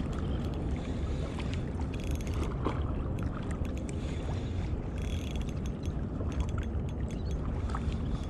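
Steady low rumble of wind and water on the microphone. A spinning reel (Shimano Stradic CI4+ 1000) is cranked in short spells of whirring and clicking as a hooked fish is reeled in close.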